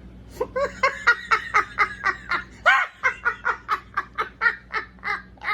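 A man laughing: a long fit of short, rhythmic laughs, about four a second, starting about half a second in.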